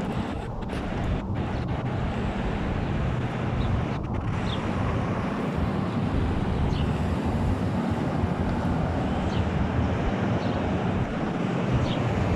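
Strong sandstorm wind blowing across the phone's microphone: a steady, heavy rush of noise.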